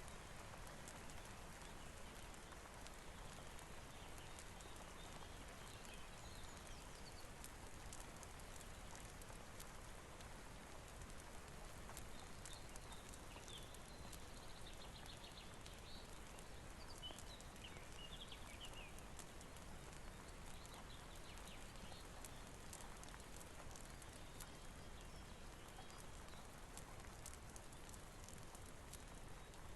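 Soft, steady rain with scattered sharp clicks and ticks, and a few faint high chirps around the middle.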